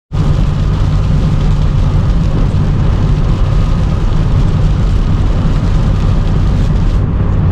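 Loud, steady rumble of a car driving through strong tropical-storm wind, with wind and road noise heaviest in the low end. It cuts in suddenly at the start.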